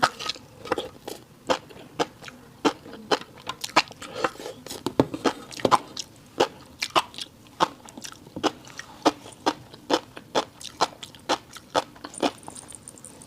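Close-miked chewing of a fish roe and rice bowl: a steady run of sharp, wet clicks and crunches, about two or three a second.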